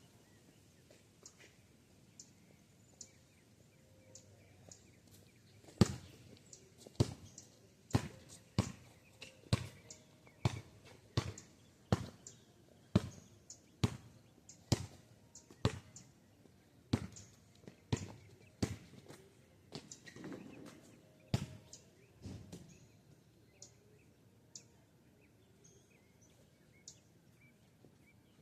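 Basketball bouncing on street pavement: a long run of sharp, evenly spaced bounces, a little under one a second, starting several seconds in and stopping about three quarters of the way through.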